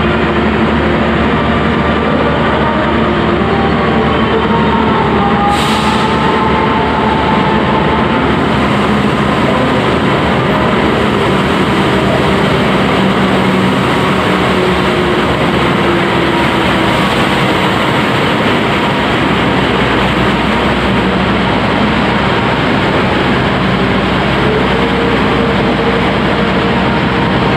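KAI CC 201 diesel-electric locomotive running as it hauls a passenger train into the station, with the steady rumble of the carriages rolling past. A short high hiss comes about six seconds in.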